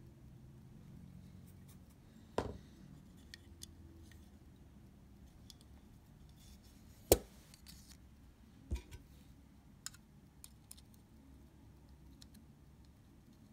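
Small metal tools handled and set down on a workbench during fine camera repair: a few scattered sharp clicks and taps, the loudest about seven seconds in, over a faint low room hum.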